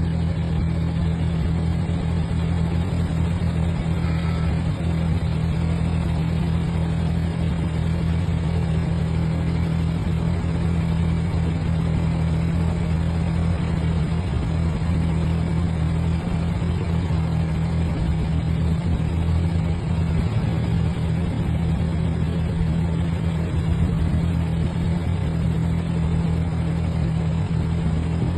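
Vintage tractor engine running at a steady speed, a low, even drone that does not rise or fall.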